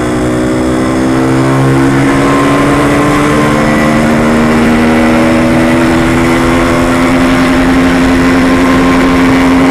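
Yamaha RX-King's 135 cc two-stroke single-cylinder engine running steadily under way, its pitch climbing slowly as the bike gathers speed.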